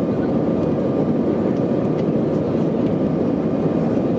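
Airbus A319 airliner's CFM56 jet engines running, a steady loud noise with a faint thin whine over it.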